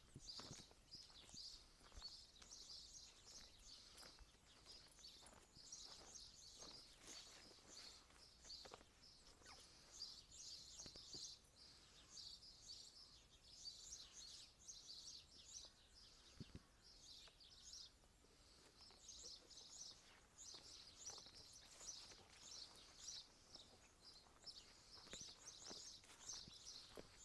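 Faint, continuous chorus of small birds chirping and twittering, with many short high calls overlapping throughout.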